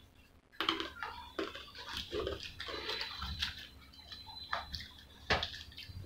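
Close-up chewing of a mouthful of French fries: wet mouth sounds with many short, crisp clicks, and one sharp click about five seconds in.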